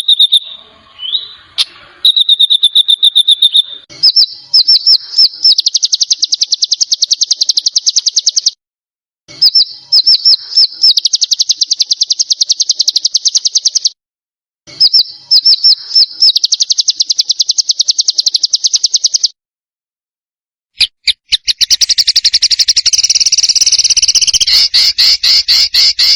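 Recorded songbird trills of the kind used to train competition birds: each phrase opens with a few separate high notes and runs into a fast, dense trill for a few seconds before stopping abruptly. The phrase repeats three times with short gaps, then a different, fuller and faster trill starts about 21 seconds in.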